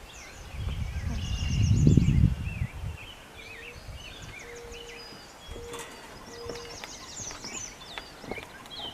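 Several songbirds chirping and trilling throughout, with a loud low rumble of wind buffeting the microphone from about half a second to three seconds in. A few short, steady low notes sound in the middle.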